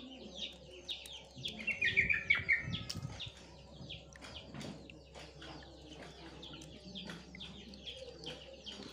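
Small birds chirping continuously, many quick falling chirps a second, with a louder burst of calling about two seconds in.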